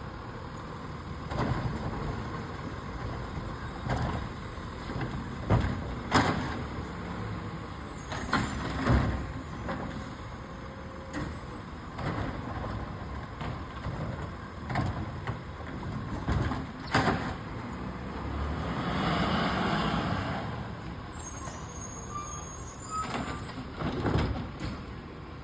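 Garbage truck running, with repeated sharp clanks and knocks and a longer hiss of air about three quarters of the way through.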